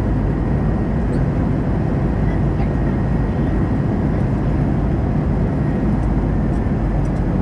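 Steady in-flight cabin noise of an Airbus A320-214 heard from a window seat: a constant rumble of airflow and its CFM56 engines, with a faint steady whine above it.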